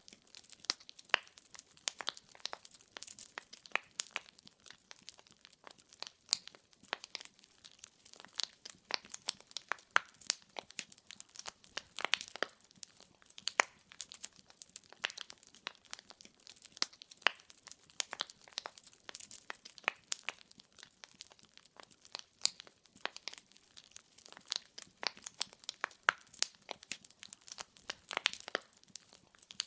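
Wood fire burning in a fireplace, with irregular sharp crackles and pops from the burning logs over a faint hiss.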